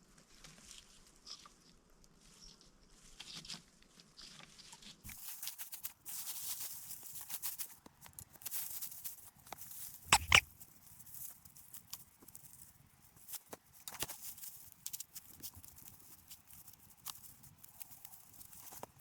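An animal's cry, one loud short call about ten seconds in, over a steady high hiss that begins about five seconds in.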